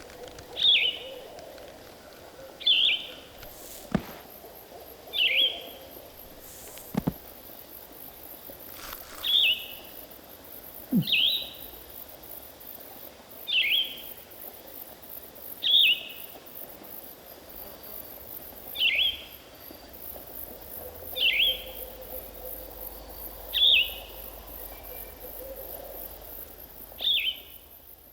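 A bird repeating a short, high, downward-slurred call about every two seconds, over a faint steady high hiss.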